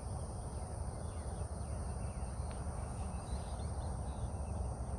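Outdoor dawn ambience: a steady high-pitched insect drone over a low rumble, with faint bird chirps about three seconds in.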